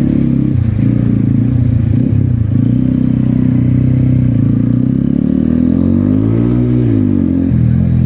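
Kawasaki Ninja ZX-10R inline-four engine running steadily, its pitch rising and falling once about six to seven seconds in.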